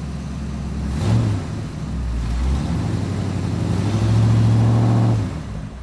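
Sports car engine running with a low, steady hum that swells about a second in and again from about four seconds, then fades out near the end.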